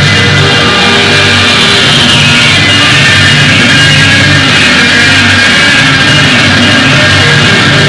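Loud, dense rock music with distorted electric guitar, in a heavy metal style.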